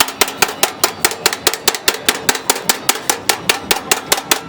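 Rapid, even metal blows, about five or six a second, on the sheet-metal panel of an old car's rusty door during body repair.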